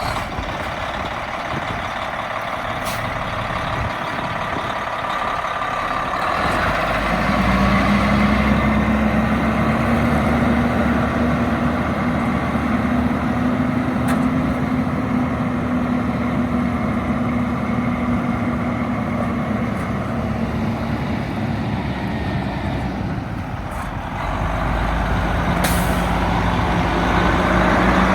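Diesel engine of a 1995 White/GMC WB semi truck running, with a steady hiss over it. Its speed rises about seven seconds in, sags for a few seconds, and rises again near the end.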